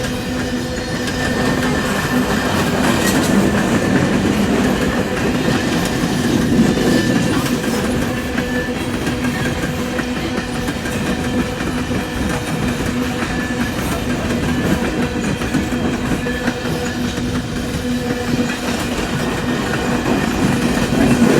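A long coal train rolling steadily past: the rumble and clatter of its steel wheels on the rails, with a faint steady whine running through it.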